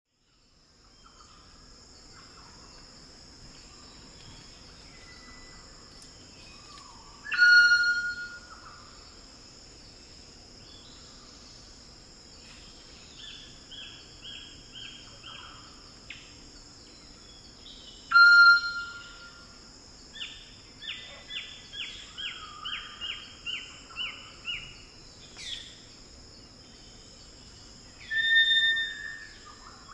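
Wild Eclectus parrots calling: three loud, ringing whistles, roughly ten seconds apart, typical of the female's call. Between them come runs of short notes stepping down in pitch, over a steady high drone of rainforest insects.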